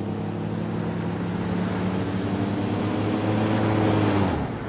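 A vehicle engine running steadily with a low hum over a hiss, cutting off about four seconds in.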